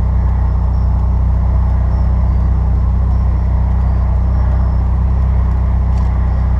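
Steady low rumble of a 1994 Toyota MR2 Turbo's mid-mounted turbocharged four-cylinder engine running at low speed, heard from inside the car's cabin.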